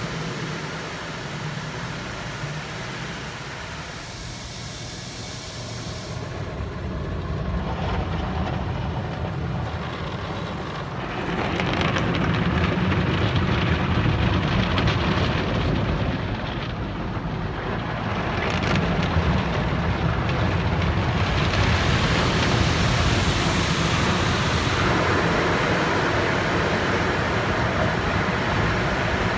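Automatic drive-through car wash running: a steady rushing of water spray and wash machinery that shifts in tone and strength as the car moves through, the hiss fading for a while in the middle, then growing louder and brighter again toward the end.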